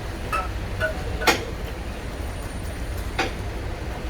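Steady low rumble of a train, with a few sharp clicks and knocks over it.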